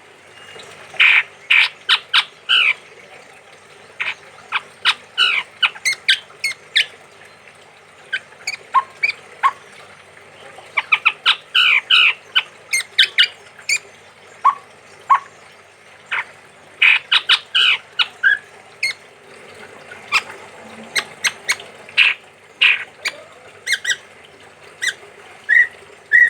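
Male chestnut-rumped babbler singing: quick clusters of short, sharp notes, separated by brief pauses.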